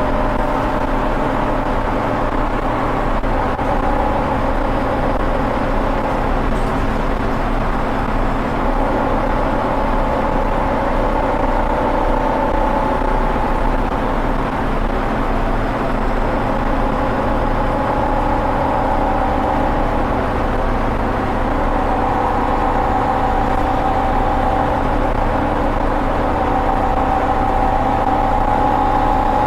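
Scania OmniCity single-deck bus's diesel engine and driveline heard from the rear seats, worked hard under way, with a steady loud engine note and whining tones that drift slowly up and down in pitch with road speed.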